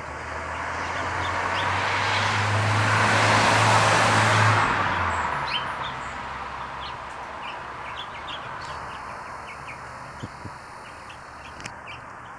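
A car passing by: engine and tyre noise swell over about four seconds, peak, and fade away. Small birds chirp now and then.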